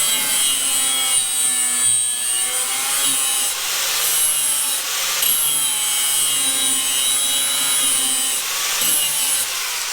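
Electric grinder grinding stainless steel exhaust pipe: a continuous rasping noise with a high motor whine whose pitch sags a little as the tool is pressed in.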